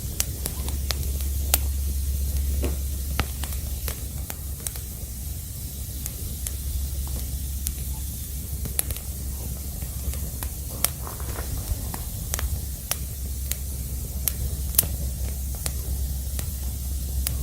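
Crackling wood fire: a steady hiss with irregular sharp pops and snaps.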